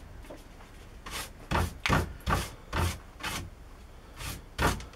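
A series of short rubbing or scraping strokes, about two a second, with a brief pause before two more near the end.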